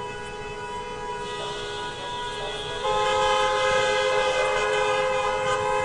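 Several car horns held down together in a long, steady, overlapping honk; a louder horn joins about three seconds in.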